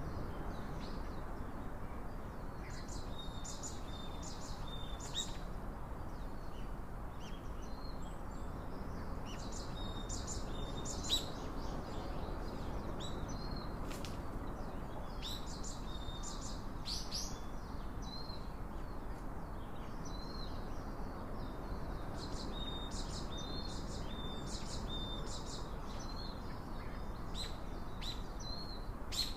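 Small wild birds chirping and calling in repeated clusters of short high notes, some with brief held whistles, over a steady low background hiss.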